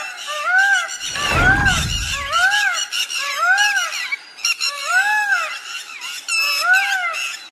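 An animal calling over and over, a rising-and-falling note about once every second, with fainter chirps behind it. A deep rumble comes in about a second in and lasts about a second and a half.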